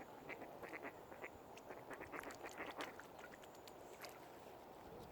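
Waterbirds calling: a quick run of short calls in the first three seconds, thinning out after that, over a steady low hiss.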